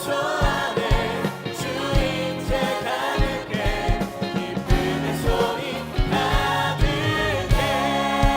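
Worship band and singers performing a contemporary Korean praise song in several voices, over a steady drum beat.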